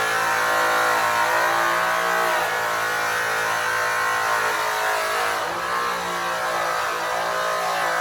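Makita GA7021 angle grinder running with an airway buff, polishing an aluminium wheel: a steady high motor whine whose pitch dips briefly twice as the buff is pressed into the metal.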